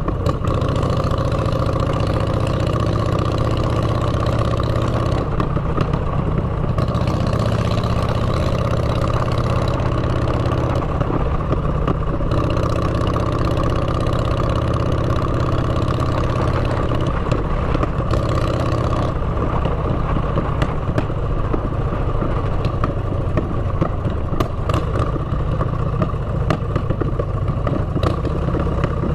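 Motorcycle engine running through aftermarket exhaust pipes while riding, its note easing off briefly a few times as the throttle is worked.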